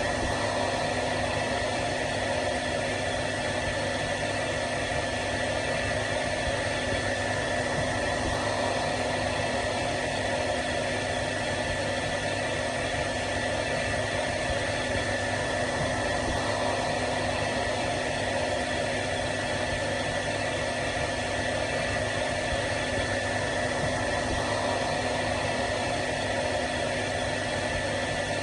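Hair dryer running continuously: a steady blowing hiss with an even motor hum and whine that holds constant throughout.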